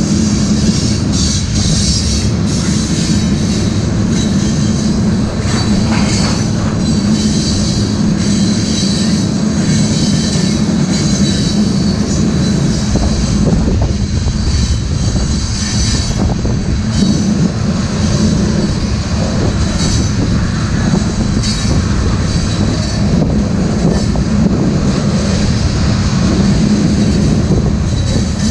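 Freight train tank cars rolling past at close range: a steady rumble of steel wheels on the rails, with a thin, high-pitched wheel squeal running over it.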